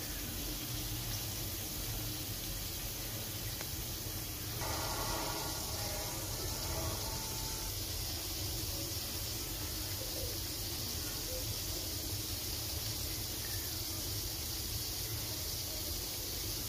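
Potato pieces frying in oil in a wok: a steady sizzling hiss, with a low rumble underneath.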